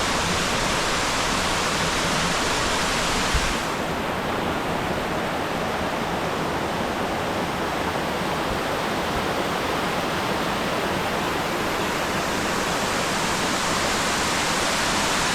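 Steady rushing of a tall waterfall, a dense, even roar of falling water. A brief thump comes a little after three seconds in, and the sound is duller for several seconds after it.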